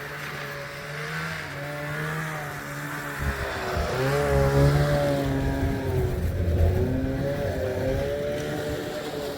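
Carbureted snowmobile engine being revved, its pitch rising and falling, louder through the middle, as it is coaxed to move while ice on the tracks makes them drag.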